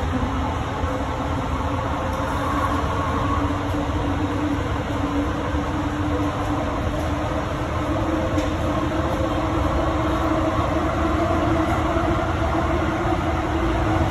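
JFK AirTrain car running along its track, heard from inside the car: a steady rumble with a hum that slowly rises in pitch, growing slightly louder toward the end.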